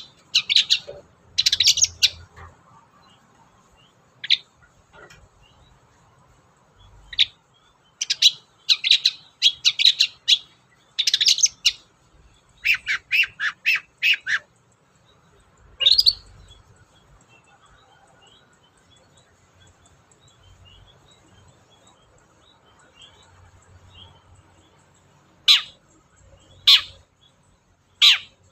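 Long-tailed shrike (cendet) calling: quick runs of sharp, high, harsh notes for the first half, then a lull, then a few single notes near the end.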